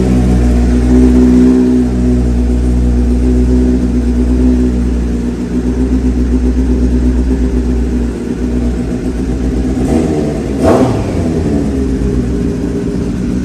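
Superbike engine running through an SC-Project full exhaust system, a steady loud idle with small swells of throttle and one brief louder burst about ten and a half seconds in.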